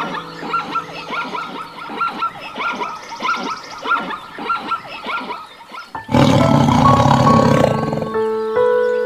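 Background music with quick repeating high chirps, about three or four a second, then about six seconds in a loud, rough animal call lasting about two seconds.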